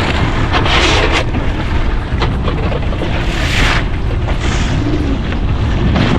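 Wind buffeting the microphone on a small open boat at sea, a constant heavy rumble with gusts of hiss swelling and fading, loudest near the start and about three and a half seconds in.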